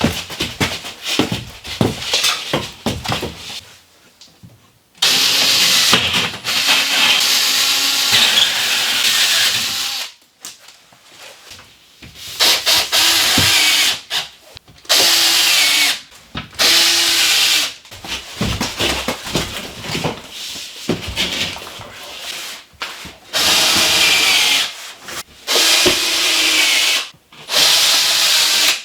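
A handheld power tool, drill-like, running in repeated bursts of one to five seconds with short pauses between them, working on building material.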